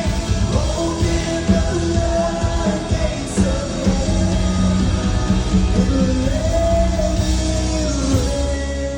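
Live worship band music: long held notes and chords over a full low end, with a voice singing.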